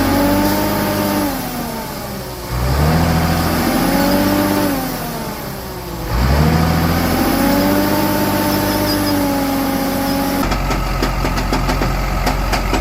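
Heavy truck engine revving in three surges, each climbing in pitch, holding, then dropping away. Near the end it gives way to a steady low hum with a patter of clicks.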